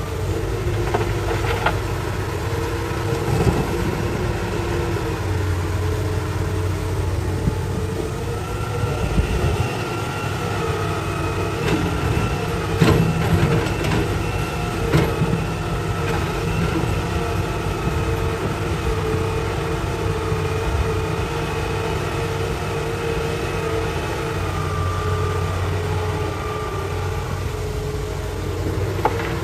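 Hitachi excavator's diesel engine running steadily as it digs, with whining tones that rise and fall in pitch as the machine works. A few sharp knocks come about halfway through.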